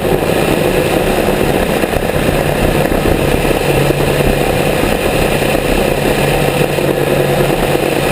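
Grumman G44 Widgeon seaplane's twin piston engines running steadily and loudly.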